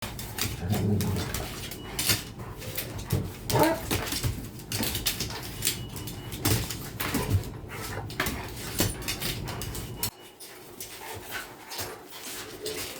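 A little dog and a big dog playing: short dog vocalizations among many sharp clicks and knocks of scuffling. A low rumble underneath stops about ten seconds in.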